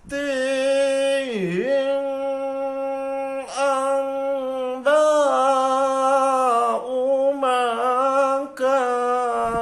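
A man's voice chanting Quranic recitation (tilawah), drawing out long held notes with ornamental pitch turns, a deep swoop down about a second and a half in, and short breaks for breath a few times.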